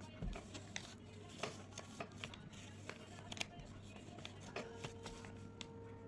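Faint rustling and creasing of chart paper being folded by hand, with scattered light clicks and taps over a low steady hum; a faint steady tone comes in about two-thirds of the way through.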